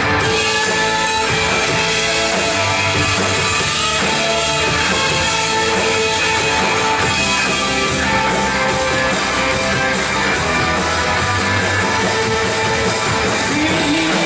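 A band playing an instrumental passage of a worship song, full and steady, with no singing.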